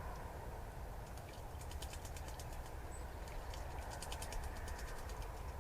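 Outdoor woodland-garden ambience picked up by the trailcam's microphone: a steady low rumble and hiss, with a flurry of quick high ticks starting about a second and a half in and a single brief high chirp near the middle.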